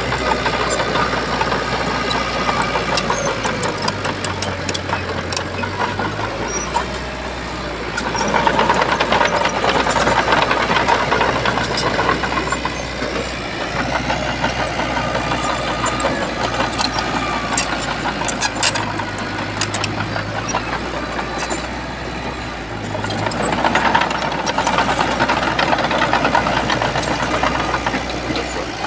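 Diesel engine of a Shantui bulldozer running steadily, growing louder and rougher for several seconds about eight seconds in and again near the end.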